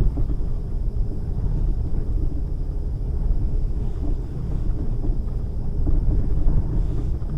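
A vehicle driving over snow-covered lake ice: a steady low rumble of engine and tyres.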